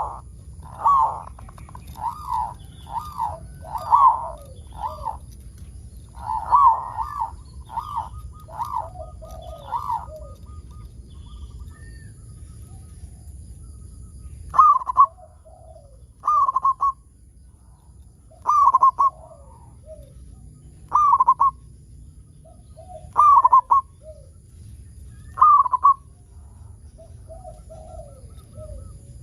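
Zebra dove (perkutut) cooing. A quick run of clipped notes comes first, then after a pause single phrases about every two seconds, each a sharp note followed by a softer, lower trill.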